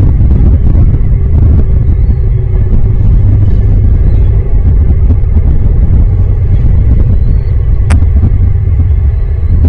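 A loud, steady low rumble, with a single sharp click about eight seconds in.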